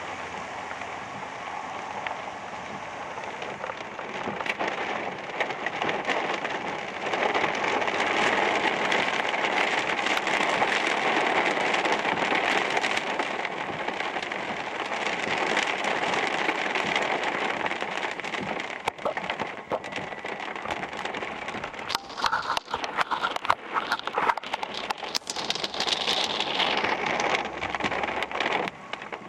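Heavy rain from a squall line pouring down, a dense steady hiss. In the last third, many sharp clicks and pops break through it.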